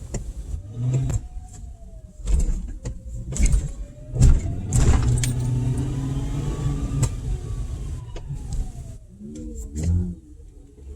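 Car engine running and revving, its pitch rising and falling slowly over several seconds, with several short sharp knocks or pops along the way, the loudest about four and a half seconds in.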